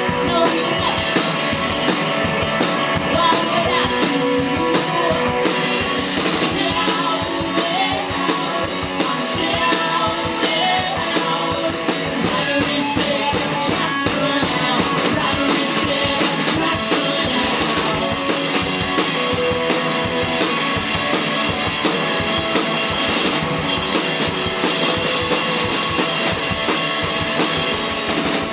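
Live indie rock performance: an electric guitar and a drum kit playing at a steady beat, with a sung vocal.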